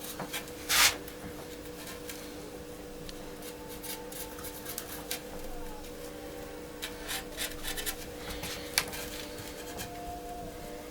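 Marks being drawn by hand along a template: short scratchy strokes and light taps, with one longer, louder stroke under a second in. A faint steady hum runs underneath.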